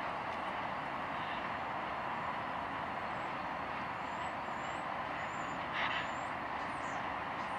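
Boxcars of a long freight train rolling past, a steady noise of steel wheels on the rails, with one short, sharper sound a little after halfway.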